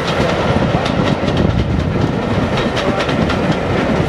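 Train of passenger coaches rolling past behind a steam tank engine, the steady rumble of the wheels broken by repeated sharp clicks as they pass over the rail joints.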